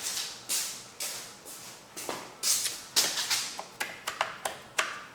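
Hands working on a small lawnmower engine: a run of short scraping swishes about twice a second, then a few sharp clicks and taps of plastic and metal parts near the end.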